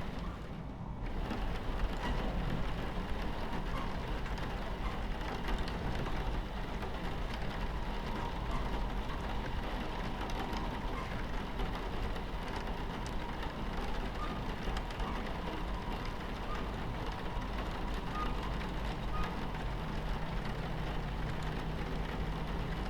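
Steady low rumble of a train running on its tracks, heard from inside the cabin, mixed with rain pattering on the window. The sound dips briefly in the first second and then runs evenly.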